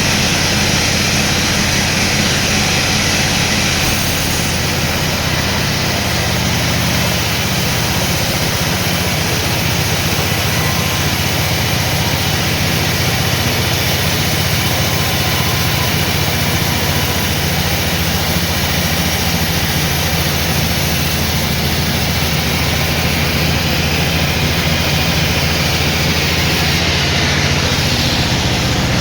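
Sawmill machinery running steadily: a low engine hum under a loud, even hiss, with no break.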